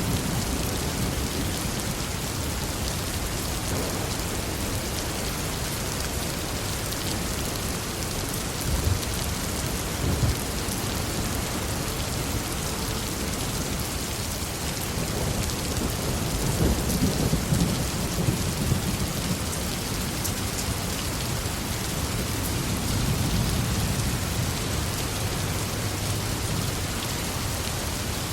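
Heavy rain falling steadily, with thunder rumbling low in slow swells about a third of the way in, past the middle, and again near the end.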